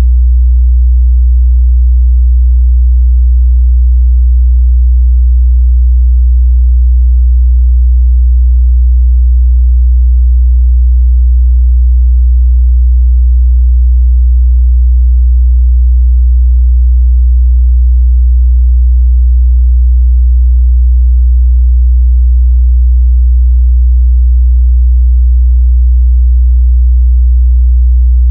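Steady, loud 61 Hz sine-wave test tone, a constant low bass hum at unchanging pitch and level.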